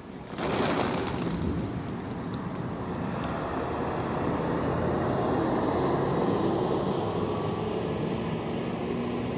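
A flock of pigeons taking off in a sudden rush of wingbeats about half a second in, followed by a continuous rushing noise with a faint low hum underneath.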